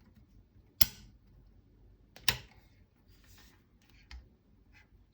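Two sharp metallic clicks about a second and a half apart, then lighter handling clicks: the SCAR 15P handguard rail being worked over the barrel boss until its rear clicks into place.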